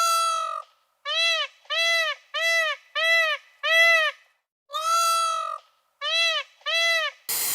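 A series of about ten short, clear, high-pitched animal calls, each rising and falling in pitch, with silent gaps between them; the first call and one about five seconds in are longer than the rest. A short burst of hissing noise begins just before the end.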